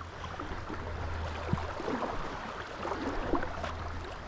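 Steady rush of river current flowing, with a low rumble underneath and a few faint scattered ticks.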